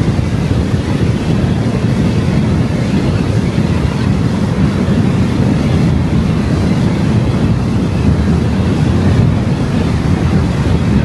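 Steady road noise of a car driving: tyre rumble and wind rushing over the microphone, heaviest in the low end and unchanging throughout.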